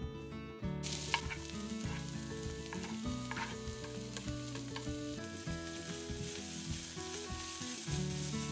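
Chopped vegetables frying in olive oil in a non-stick pan: a sizzle that starts suddenly about a second in as the food meets the hot oil, with a spatula stirring and scraping through it.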